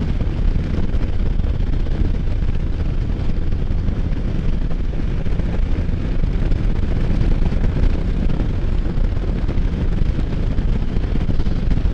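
Can-Am Spyder F3 cruising at road speed: a steady engine drone buried in heavy wind rush buffeting the rider's microphone.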